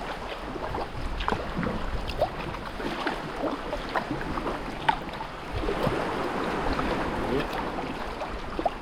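Water splashing and dripping around a sea kayak as it is paddled: many short, irregular splashes over a steady wash of sea water, with wind rumbling on the microphone.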